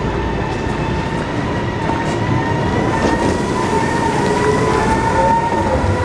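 Electric commuter train pulling out along the platform, its motors giving a whine that slowly rises in pitch as it gathers speed, over a steady rumble from the wheels.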